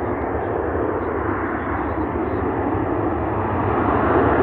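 Jet airliner engines running as the plane passes, a steady rushing noise that grows slightly louder near the end.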